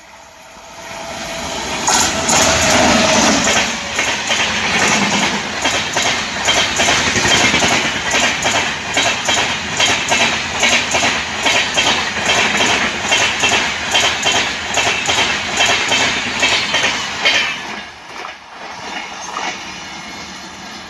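Electric-hauled express passenger train passing close by at speed. The locomotive rushes past about two seconds in, followed by a long run of coaches with a fast, steady clickety-clack of wheels over rail joints. The clatter fades to a quieter rumble near the end.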